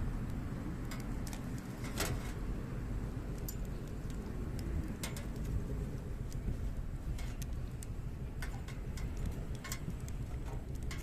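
Hardwood campfire crackling: irregular sharp snaps and pops, about a dozen, the loudest about two seconds in, over a low steady rumble.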